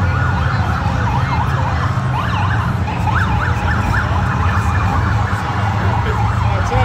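Several police motorcycle sirens yelping at once, quick overlapping up-and-down sweeps, over the low rumble of the motorcycles' engines. At the very end one siren starts a rising wail.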